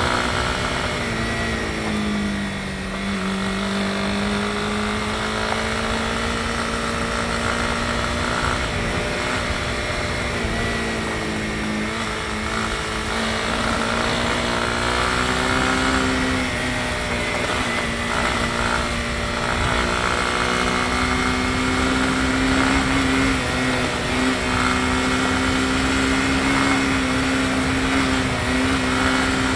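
Honda CB250R's single-cylinder four-stroke engine pulling the bike along at a fairly steady pace. The engine note dips briefly a couple of seconds in, then rises slowly through the rest of the stretch.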